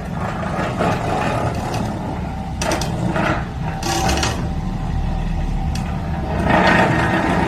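Doosan DX350LC-7 excavator with a pile-driver attachment working: a steady low engine rumble that builds towards the end, broken by several short scraping, hissing bursts.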